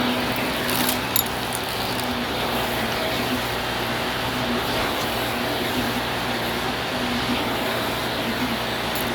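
Vacuum cleaner running steadily with a constant motor hum, and a couple of sharp clicks about a second in.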